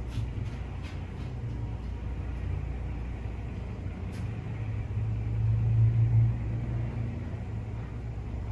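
Low, steady vehicle rumble with a deep hum, swelling louder about five seconds in and easing back about a second and a half later, with a few faint ticks on top.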